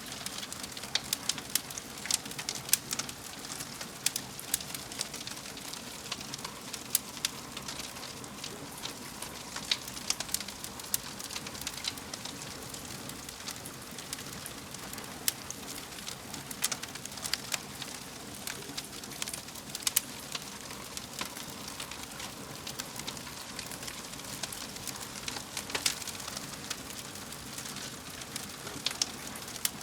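Wood fire crackling in a fireplace: irregular sharp pops and snaps, a few at a time, over a steady soft hiss of burning.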